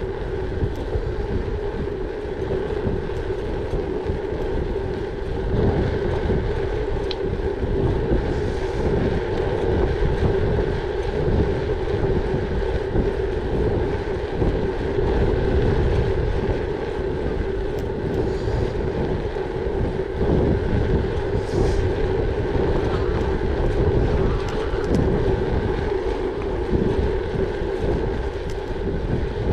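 Gravel bike riding along: wind buffeting the microphone and tyres rumbling over the surface, with a steady droning hum throughout.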